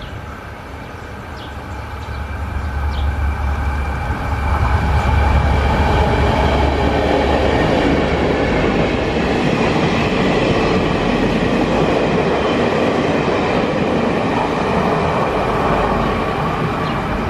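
Railway repair train passing through a station. A low rumble builds over the first few seconds as it nears, then a steady run of wheels on rails continues as it goes by.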